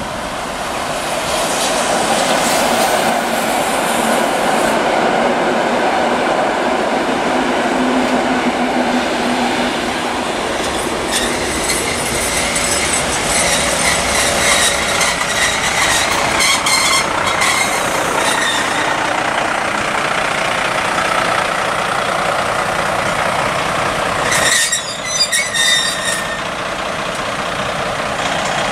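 A loud, continuous vehicle noise, with high squealing tones through the middle and a short break followed by choppy bursts near the end.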